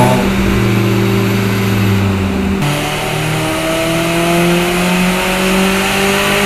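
Perodua Myvi G3 engine running under load on a chassis dyno, its pitch climbing slowly as it revs up through a power run. The sound changes abruptly about two and a half seconds in.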